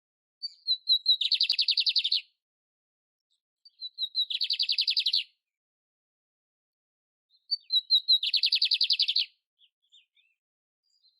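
A canary (canário-império) singing three phrases, each a few high introductory notes running into a fast, rattling trill about a second long, repeated roughly every three to four seconds.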